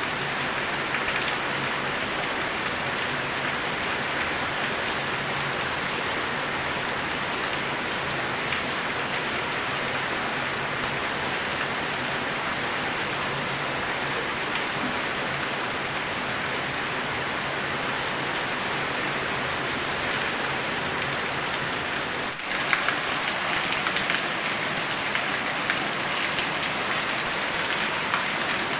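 Very heavy rain pouring down steadily, a dense even hiss of drops hitting surfaces, with a momentary dip about three-quarters of the way through.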